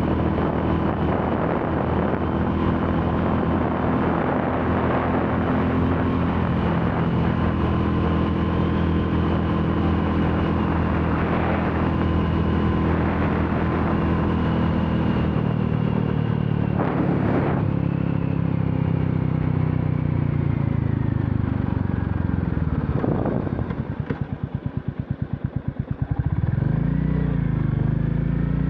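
Royal Enfield Classic 350's single-cylinder engine running steadily under way, then slowing with falling pitch, dropping to slow separate firing beats for a couple of seconds, then picking up again as the bike pulls away near the end.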